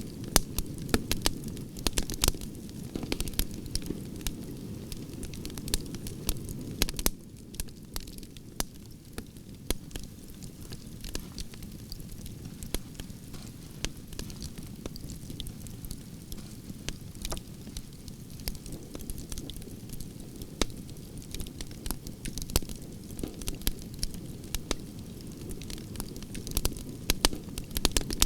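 Wood fire of burning branches crackling: irregular sharp pops and snaps over a steady low noise of the flames, which eases slightly about seven seconds in.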